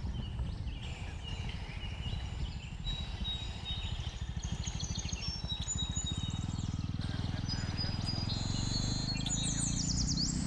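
Jawa 42 motorcycle's single-cylinder engine running under the rider, its low firing pulses growing stronger about six seconds in, while forest birds chirp and trill over it, most busily near the end.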